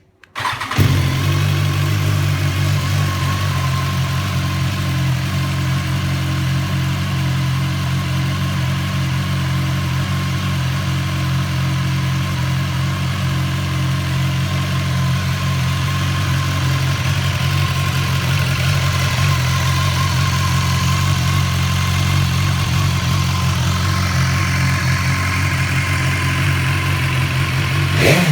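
BMW S1000XR motorcycle's inline-four engine, fitted with an Akrapovic muffler, starting up and then idling steadily.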